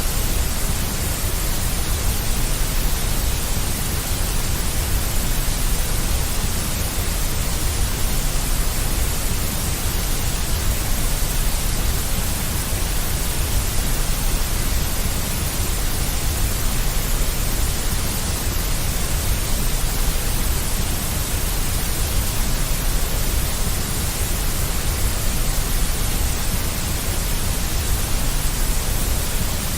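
Deep white noise: a steady, unchanging hiss with a strong low rumble underneath, made as a soothing sleep sound for babies.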